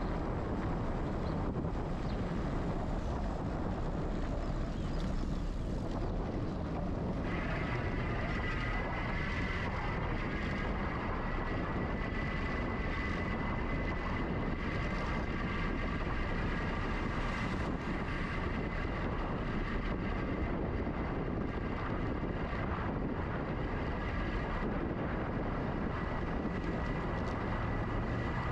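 Wind rushing over an action camera's microphone on a moving e-bike, with a steady low rumble. About seven seconds in, a steady high whine joins it and holds.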